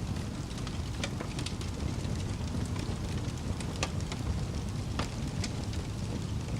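Fire crackling: a steady low rumble with sharp pops scattered through it, about one or two a second.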